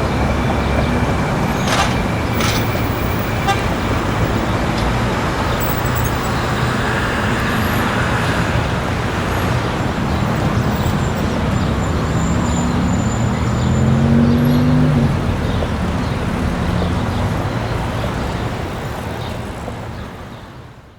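Street traffic: a steady wash of car and engine noise as vehicles pass, with a car horn tooting, fading out over the last few seconds.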